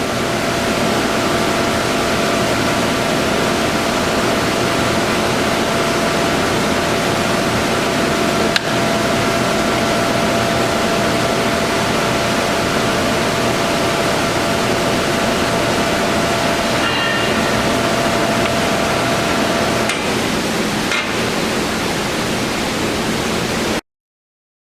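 Harrison M300 engine lathe running under power: a steady mechanical whirring with a thin whine from the headstock that drops out about twenty seconds in. A single sharp click comes about eight seconds in, and the sound cuts off abruptly near the end.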